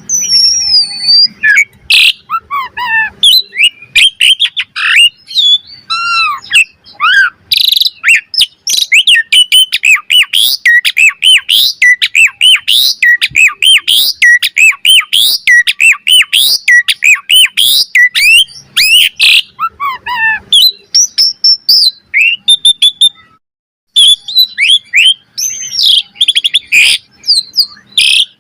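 Asian pied starling (jalak suren) singing a loud, varied song: a fast, continuous run of whistles, chirps and slurred notes mixed with some harsh notes, breaking off briefly about five seconds before the end.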